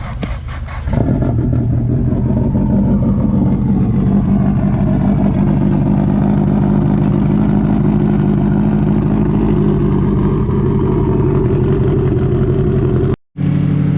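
Turbocharged SR20DET four-cylinder of a Nissan S13 Silvia running hard on a chassis dyno, rising to a loud, steady high-rev note about a second in and holding it. The sound cuts out for a split second near the end.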